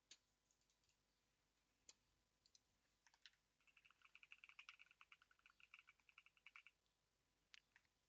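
Faint typing on a computer keyboard: a few scattered keystrokes, then a quick run of keystrokes for about three seconds midway, then a couple more near the end.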